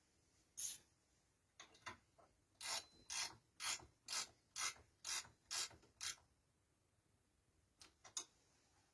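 A run of short scraping strokes, about two a second, with a few scattered strokes before them and two more near the end.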